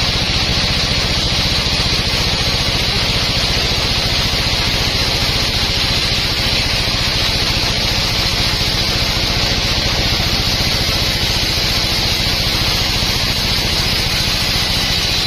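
Sawmill engine running steadily at constant speed, with a fast, even low pulse and a steady hiss.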